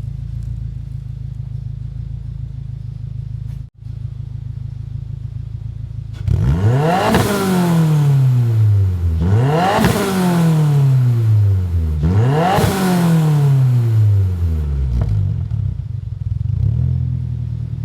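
A 2022+ Subaru WRX's 2.4-litre turbocharged flat-four running through a Noble titanium dual-exit cat-back exhaust with straight-through mufflers. It idles, then is revved three times about three seconds apart, each rev climbing quickly and falling away more slowly. It then settles back to idle.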